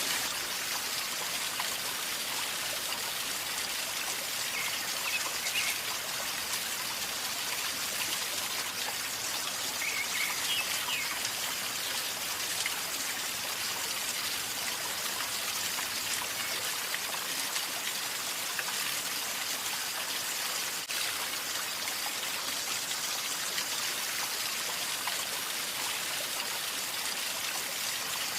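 River water flowing and gurgling steadily over stones, an even unbroken rush, with two faint brief high chirps about five and ten seconds in.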